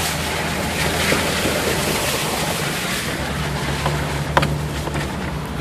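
Nissan Xterra running slowly on a rough mountain track, a steady low engine drone under a hiss of rain, sleet and road noise. A few sharp clicks sound over it, the clearest about four and a half seconds in.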